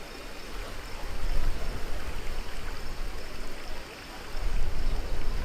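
Rushing, splashing water around a river-rapids raft ride, with a heavy low rumble that swells and eases.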